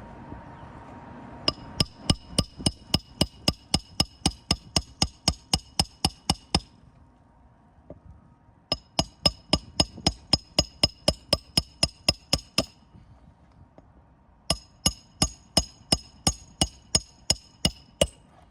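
Hand hammer striking metal in three fast runs of blows, about four a second, each blow with a sharp metallic ring, paused briefly between runs.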